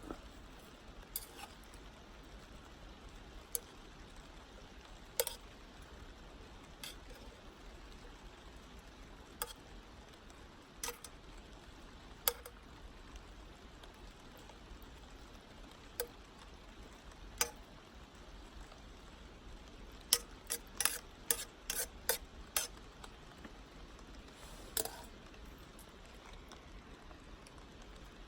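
Wood campfire crackling: sharp pops and ticks at irregular intervals over a faint steady hiss, coming in a quick cluster about two-thirds of the way through.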